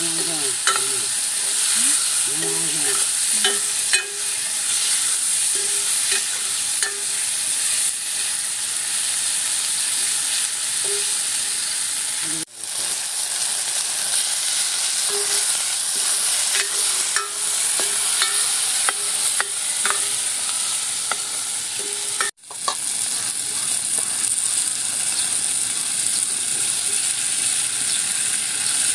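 Tomato-and-chilli masala frying in a blackened iron pan over a wood fire, sizzling steadily, with a metal ladle stirring and clinking against the pan. The sizzle cuts out briefly twice, about halfway through and again some ten seconds later.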